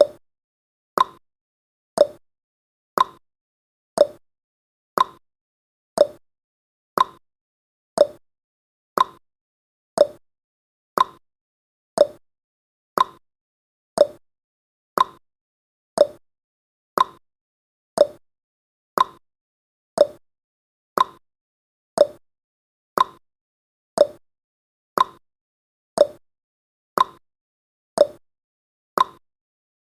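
Ticking sound effect of a countdown timer: one short, sharp tick every second, evenly spaced.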